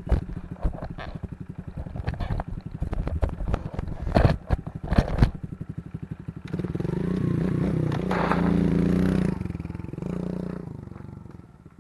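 Kawasaki KLX110 pit bike's small single-cylinder four-stroke engine idling with a fast, even chug, with a couple of sharp knocks about four and five seconds in. About six and a half seconds in it revs up and holds high for about three seconds, then drops back toward idle.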